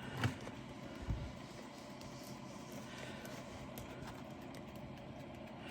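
Handling noise from a large diamond painting being moved and set aside: a sharp click, then a soft low thump about a second in, followed by faint room tone with a few light ticks.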